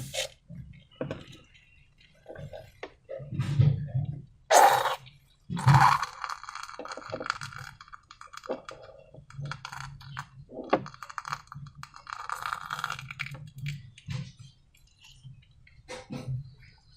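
Hands working with slime-making materials and containers: irregular clicks, clinks and crunchy rattles, with stretches of rustling and two louder crunches about four and a half and six seconds in.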